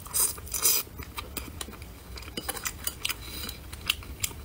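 Close-miked eating of pan-fried food: two loud crunchy bites in the first second, then chewing with many short, sharp clicks.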